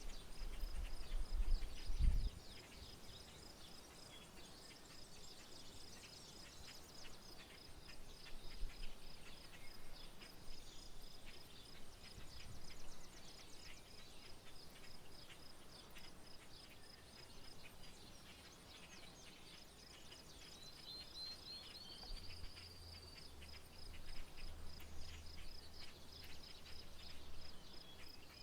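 Outdoor rural ambience: birds chirping and a steady, evenly pulsed high chirping. Low rumbles come in the first two seconds and again from about 22 seconds in.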